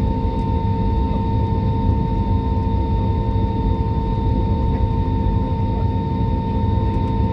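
Jet airliner engines running steadily: a low rumble with a constant droning hum.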